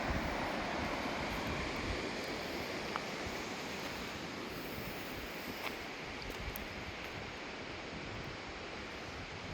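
Steady rushing of a river, easing slightly towards the end, with a few faint ticks.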